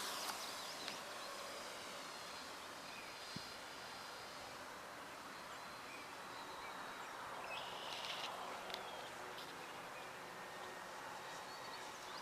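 Open-field ambience: a steady hiss of wind and insects with a few faint bird chirps, under the faint hum of a distant electric RC airplane motor.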